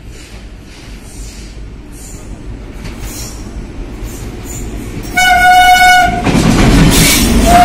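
Electric locomotive approaching on the near track: the train's rumble grows slowly, the horn sounds one steady blast about five seconds in, then the locomotive and its coaches pass close with a loud rumble, and the horn starts again at the very end.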